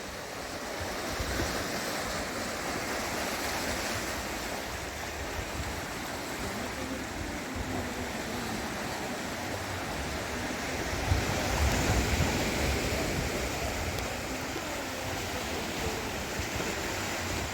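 Sea surf washing on a beach, a steady rush with a louder swell about eleven seconds in, and wind buffeting the microphone.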